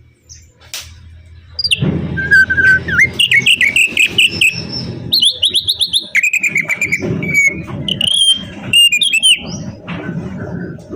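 An opior (opyor) songbird sings a fast, varied song of whistled notes and rapid trills, starting about two seconds in, over a choppy low rumble.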